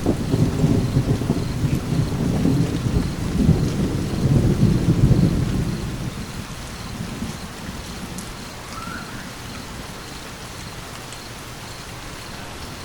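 Thunder rumbling over steady rain: a low rumble breaks in suddenly, swells for about five seconds and dies away, leaving the rain hiss.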